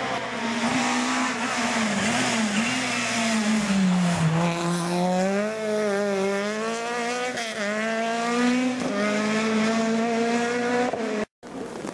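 Rally car engine running hard, its pitch falling and rising several times as the driver lifts off and accelerates again through the bends. The sound cuts out briefly near the end.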